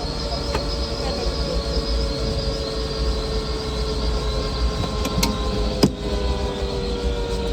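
Bell helicopter's turbine engine and rotor running, a steady low rumble under a whine that slowly falls in pitch. A sharp click about six seconds in.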